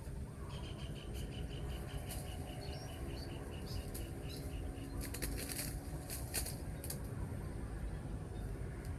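Spotted dove wings flapping in a few quick bursts a little past the middle, over a fast, high-pitched chirping trill in the first half and a steady low rumble.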